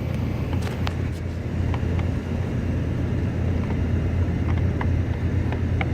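Steady low hum of a rooftop HVAC gas pack unit running, with a few faint ticks.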